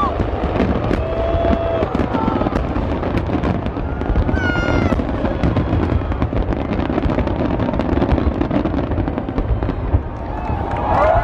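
Fireworks display in a dense barrage: continuous crackling and popping over a low rumble of bursts. Near the end a crowd starts to cheer.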